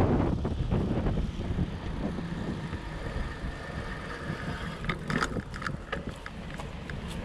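Fat bike on 4.4-inch Jumbo Jim tyres rolling over the ground, with a low rumble and wind buffeting the microphone that eases after the first second or two. A cluster of sharp clicks or rattles comes about five seconds in.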